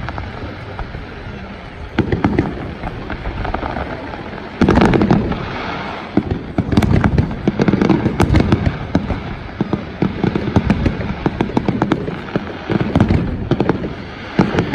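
Fireworks display: repeated booms and crackling bangs, sparse at first, then coming thick and fast after a loud burst about five seconds in.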